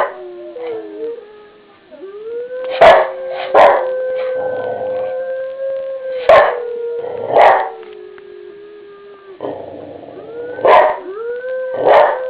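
Long, steady, low howls, held for several seconds with slight rises and falls in pitch, while a dog barks sharply over them in pairs of loud single barks. The dog is reacting to the howling.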